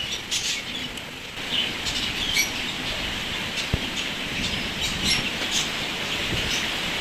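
Small birds chirping, with short high calls scattered irregularly over a steady hiss. There is one sharp low tap a little under four seconds in.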